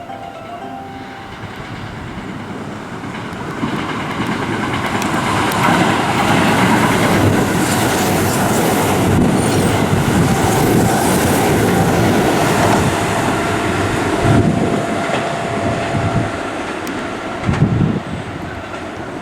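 Electric train passing at close range, its clatter swelling over a few seconds and then fading, with wheels clacking over the rail joints and two sharp knocks near the end.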